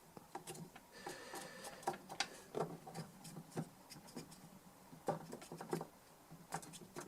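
Faint rubbing with scattered light clicks and taps as the rusty metal case of a DI box is cleaned by hand.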